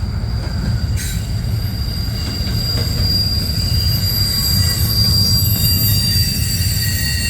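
Intermodal freight train's cars rolling past with a steady low rumble; about a second in, high-pitched wheel squeal sets in as several held tones.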